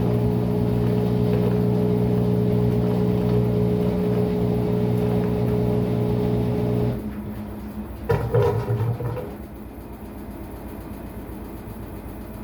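Maytag MVWX655DW1 washing machine running during a tub-clean cycle: a steady mechanical hum that cuts off abruptly about seven seconds in. A short clatter follows about a second later.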